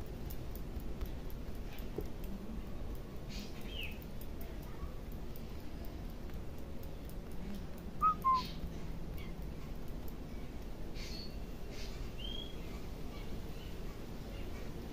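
Birds calling in the background: a few short, faint chirps and one brief two-note call about eight seconds in, over a steady low background noise.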